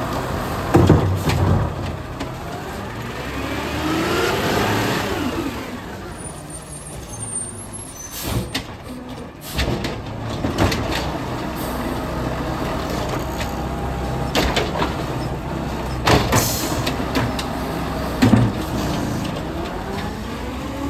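Garbage truck engine running, with a rising and then falling whine about four seconds in and several sharp clanks and knocks throughout.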